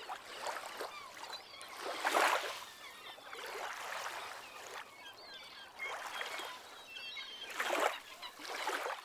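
Small sea waves lapping on a shallow beach, washing in and fading every second or two, with birds chirping throughout.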